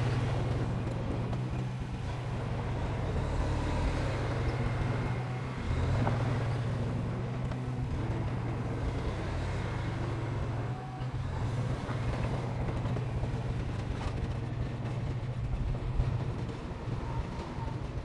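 Heavy diesel engine of construction machinery running under load, a steady low drone that swells and eases slightly.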